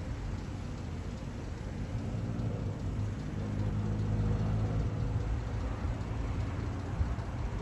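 Low hum of a motor vehicle's engine that swells louder for a few seconds midway, over a steady background rumble.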